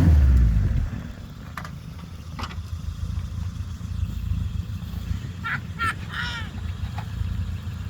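Suzuki Samurai plow truck's engine settling down from a rev in the first second, then running with a steady low rumble. Two sharp clicks sound early on, and a few short high-pitched sounds come a little past the middle.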